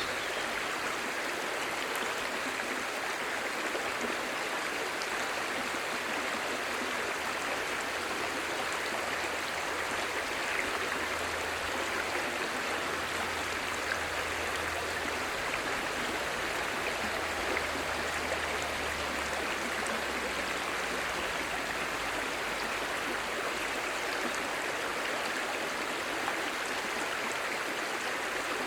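Clear shallow stream babbling steadily over rocks.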